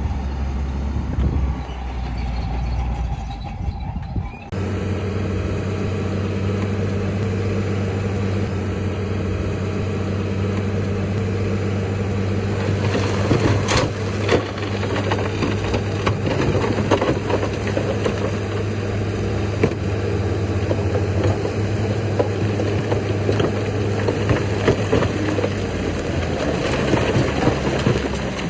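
Heavy diesel engine of earthmoving machinery running steadily, with scattered metallic clanks and knocks. Its note steps up sharply about four seconds in.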